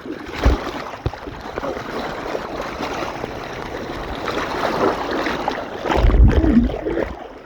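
Breached river mouth rushing through a cut in the sand bar into the sea, a steady churning wash of water. Low rumbling bumps come about half a second in and again near the end.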